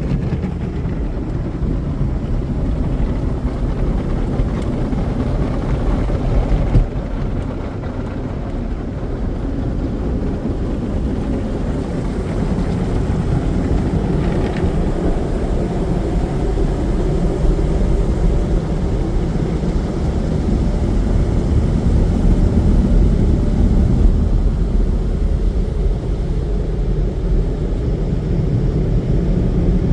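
Automatic car wash tunnel machinery running around the car: a loud, steady rushing roar with no break, shifting briefly about seven seconds in.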